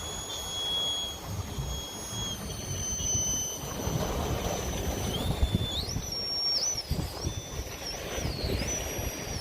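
3Brothers Yellow Jacket 2000kv brushless motor on an Axial SCX10 II RC rock crawler, whining at a high pitch: steady at first, then fading, then rising and falling in pitch from about five seconds in. Under it are a rough rumble and scattered knocks from the truck moving over rock.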